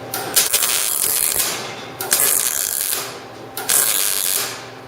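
Lincoln MIG welder stitch-welding steel, three short crackling welds of about a second each with brief pauses between. The welds run from the thicker-gauge flange into the thinner pipe.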